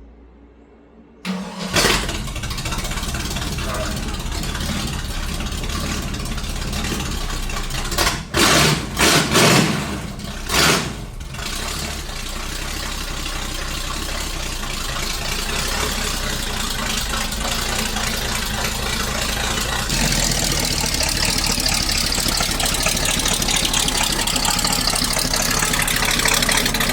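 1981 Chevy Malibu race car's engine starting about two seconds in, then running, with a few quick revs between about eight and eleven seconds in before it settles back to a steady idle.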